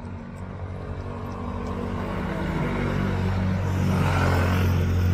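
A car engine running close by, with a steady low hum that grows louder and peaks about four seconds in, as if the vehicle is approaching.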